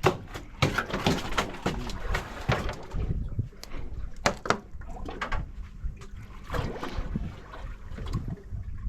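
Water splashing and slapping against a small boat's hull, with irregular knocks and clatter on board.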